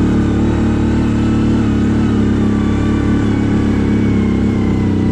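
CFMoto 1000 ATV's V-twin engine running steadily while being ridden, heard from on board.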